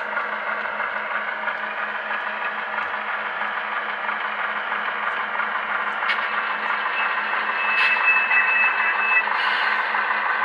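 HO scale model locomotive's DCC sound decoder playing an engine sound through its small onboard speaker as the locomotive runs slowly toward a car to couple. A couple of light clicks and a thin, high steady tone lasting about a second and a half come in about three-quarters of the way through.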